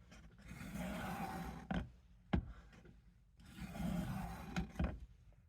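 Knife edge drawn along the fine grit stone of a Work Sharp sharpener: two long scraping strokes, with a few sharp clicks between and after them, the last strokes of a set of 20 on one side of the blade.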